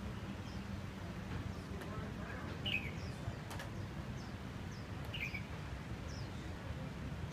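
A bird chirping: short falling chirps about every two and a half seconds, with fainter higher chirps between them, over a steady low rumble.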